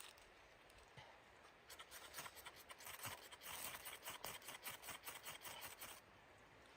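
A quick run of rough scraping strokes that starts about two seconds in and stops abruptly about six seconds in.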